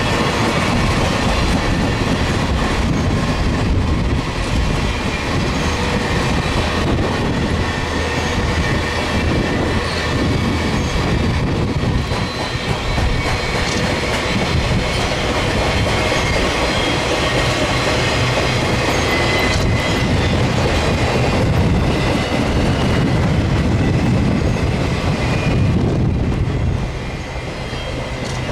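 Railroad cars of a long train rolling past steadily, their wheels clicking over the rail joints with a constant rumble. Faint high wheel squeals come through now and then.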